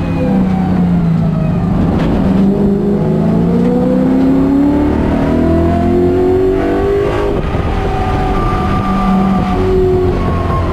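Mustang race car's engine heard from inside the cockpit, pulling hard and rising in pitch as the car accelerates out of a corner. About seven seconds in the pitch drops suddenly, as on an upshift, and then runs on steady at high revs.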